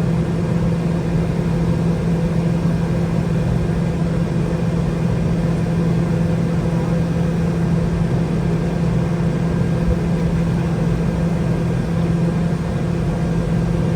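Boeing 717-200's tail-mounted Rolls-Royce BR715 turbofan engines running steadily at low power, heard inside the passenger cabin. The sound is an even drone with a strong low hum and no change in pitch or level.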